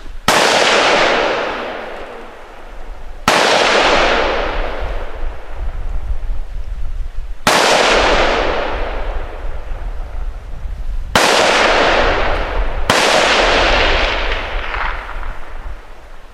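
Five rifle shots at uneven spacing, the last two less than two seconds apart, each followed by a long rolling echo that fades slowly.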